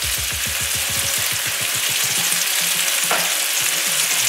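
Chorizo and chopped garlic frying in oil in a nonstick skillet: a steady sizzle with fast crackling pops. The garlic has just gone into the browning chorizo.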